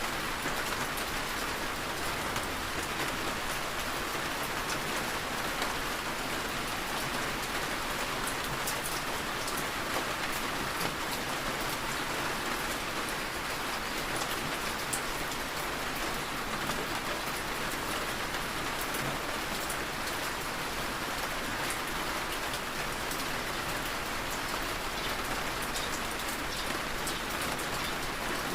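Heavy rain falling steadily, a dense even hiss with scattered drops hitting a surface.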